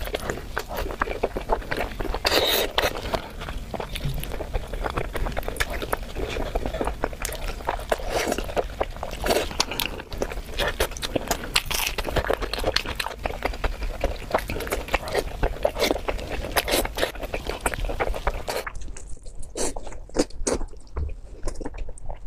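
Close-up eating sounds of braised pork: biting and chewing with many small irregular mouth clicks and smacks. Near the end the sound turns duller.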